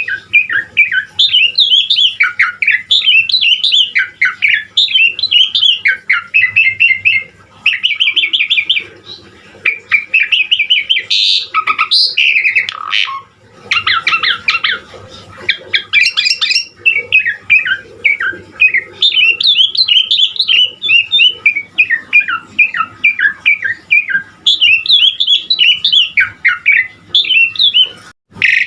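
Javan pied starling (jalak suren) singing at length: a fast, varied chatter of whistles, chirps and harsh squawky notes, pouring out almost without pause.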